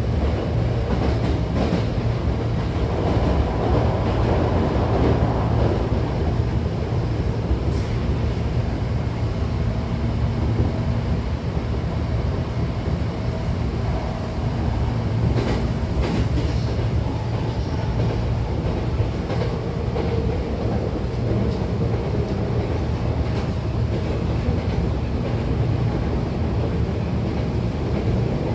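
Hankyu 8300-series commuter train heard from inside the passenger car while running: a steady low rumble of wheels on rail with faint clicks from the track.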